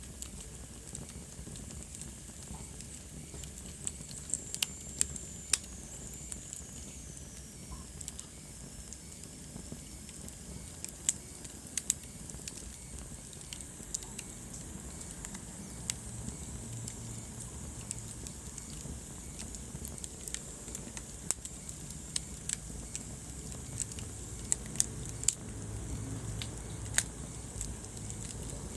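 Wood fire burning in a fireplace: a low steady rumble of flames with sharp crackles and pops at irregular intervals, some in quick clusters. A faint high whistle slides down in pitch a few seconds in.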